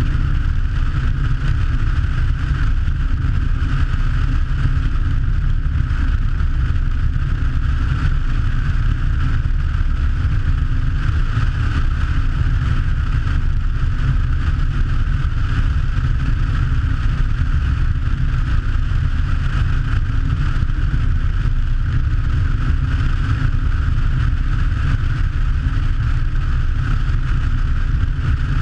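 Twin engines of a Che-22 Korvet amphibian running steadily, with a heavy low rumble and no change in pitch or level.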